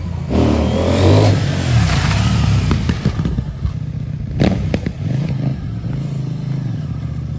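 CFMOTO 800NK's 799 cc parallel-twin engine revving hard as the bike pulls away on a sharp twist of the throttle, with a surge of noise in the first second or so as the rear end steps sideways. The engine then runs on, with a couple of sharp clicks about halfway through.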